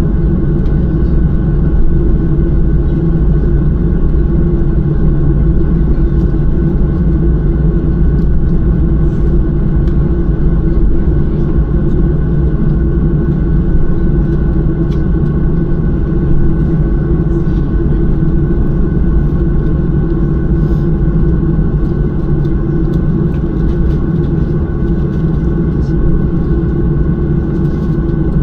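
Jet airliner cabin noise on the ground before takeoff: the engines running at idle make a steady, loud low rumble with an even hum over it.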